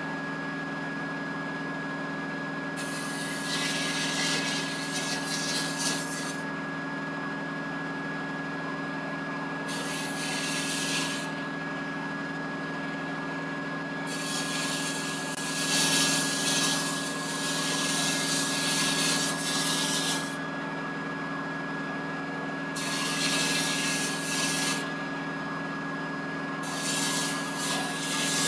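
Abrasive blasting in a blast cabinet: a steady machine hum (cabinet dust collector or vacuum) runs throughout, and the blast gun's hiss cuts in and out in bursts of one to six seconds, about five times.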